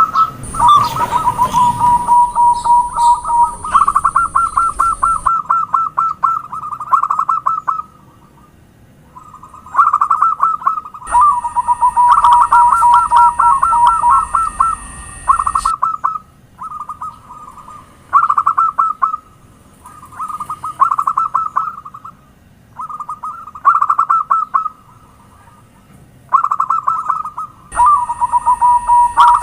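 Zebra doves (perkutut) cooing: a run of phrases, each a quick staccato string of coos, with short pauses between them.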